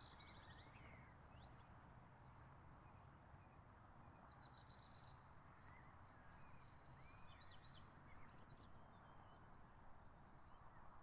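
Faint birdsong: scattered chirps and a few short trills over a steady low hiss.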